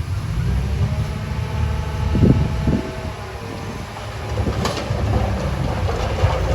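Komatsu D31A bulldozer's diesel engine running under load, a steady low rumble. Sharp knocks come about two seconds in and again near five seconds, followed by rattling clatter.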